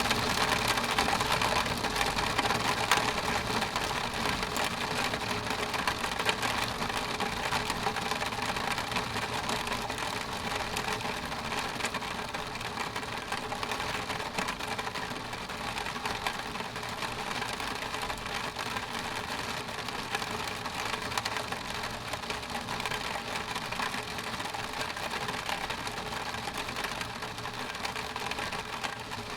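Steady rain on a window pane: a dense patter of many fine drop ticks on the glass, easing slightly in loudness over the stretch.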